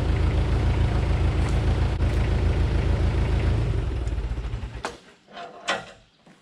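Heavy equipment engine idling, then shut off about four seconds in and running down to a stop. A few light knocks follow.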